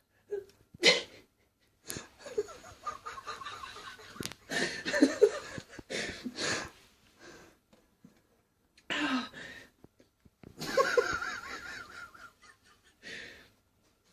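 A person laughing under their breath in stifled, wheezy bursts, with gaps between them; the longest fits of laughter come in the middle and near the end.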